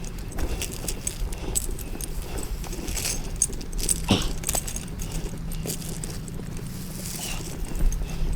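A truck engine running steadily, with irregular metallic clinking and rattling over it.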